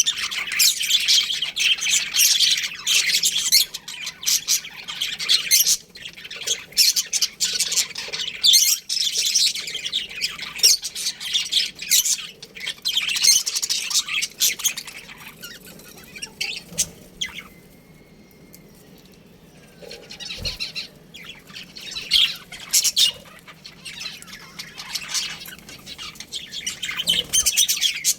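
A colony of budgerigars chattering and chirping, many rapid high-pitched calls overlapping in bursts, easing off briefly a little past halfway before picking up again.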